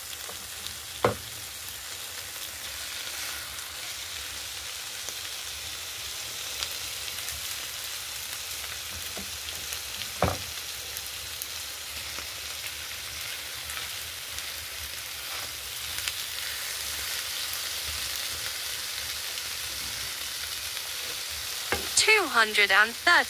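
Raw chicken drumsticks sizzling in a hot frying pan of onions and green peppers as the pieces are laid in, a steady hiss. Two brief knocks, about a second in and about ten seconds in, and a short wavering pitched sound near the end.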